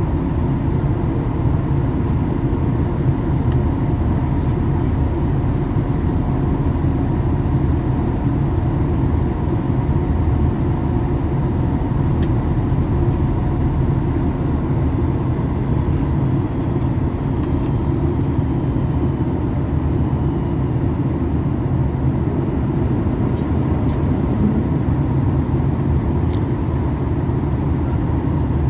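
Steady in-flight cabin noise of a Boeing 737 MAX 8, heard from a forward window seat: its CFM LEAP-1B engines running and air rushing past the fuselage as an even, low rumble with faint steady tones above it.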